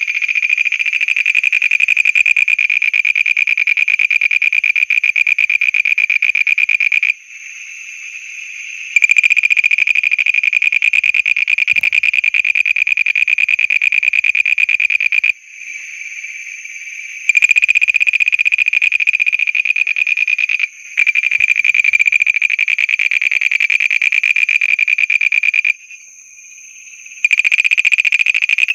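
Frogs calling: one loud, rapid, even trill in bouts lasting several seconds, broken by short pauses in which fainter trilling from other frogs carries on.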